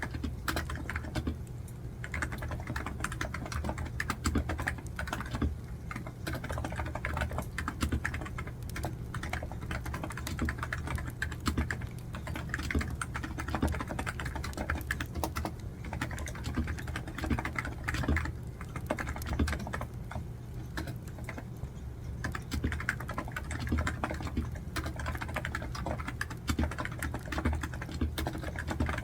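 Computer keyboard typing: a steady stream of quick, irregular keystrokes.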